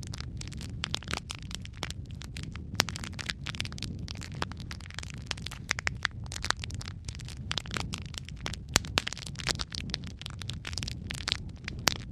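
Wood fire burning in a fireplace: logs crackling and popping in quick irregular snaps over a low steady rumble of the flames.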